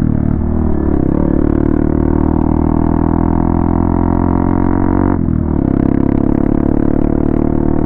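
Modified Hero Xpulse 200's single-cylinder engine droning at steady revs under way, with a brief dip about five seconds in before the drone picks up again at the same pitch.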